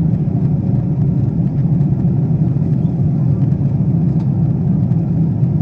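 Steady cabin noise inside a Boeing 777-200ER during descent: a low, even rumble of the engines and the airflow over the fuselage.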